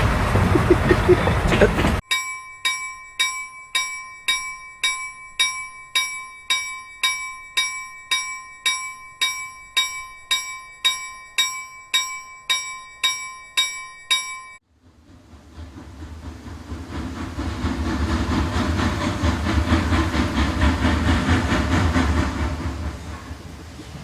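A train bell ringing in even strokes about twice a second, cutting off suddenly, followed by the low rumble of a train that builds up and eases slightly near the end.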